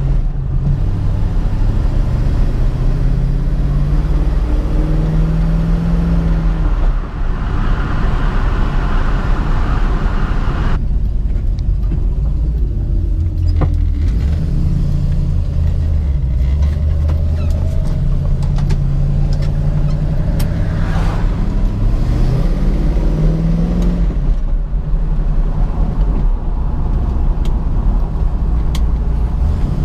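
The 1967 Ford Mustang's 289 small-block V8 running while driving. The revs climb and drop back several times.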